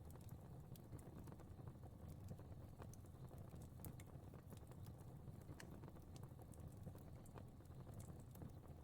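Fire crackling softly in a fireplace: scattered small pops and snaps over a low, steady rumble of flame.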